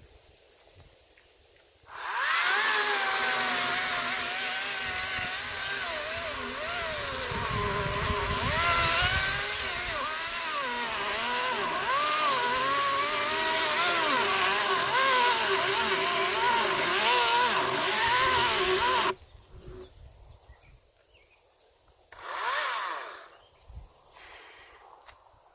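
A Greenworks 40-volt cordless electric chainsaw with a 14-inch bar cutting a pine log. It starts suddenly about two seconds in, its motor whine wavering up and down as the load changes, and stops abruptly about seventeen seconds later, followed a few seconds on by a short, quieter burst.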